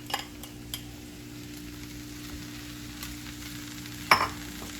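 Chow mein noodles sizzling steadily in a hot wok while being stirred, with a spatula clicking against the wok a couple of times near the start and once loudly about four seconds in. A low steady hum runs underneath.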